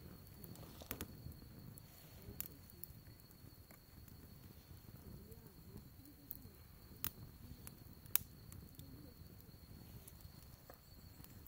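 Wood fire burning and crackling faintly, with a few sharp, scattered pops, the loudest about two-thirds of the way through.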